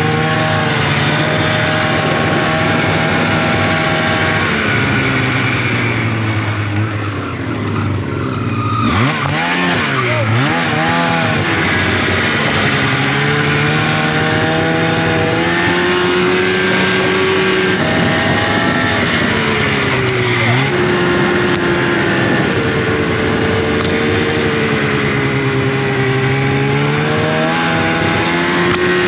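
Snowmobile engine running under changing throttle, its pitch rising and falling as it is ridden. About nine seconds in it drops off briefly, wavers, and then revs back up.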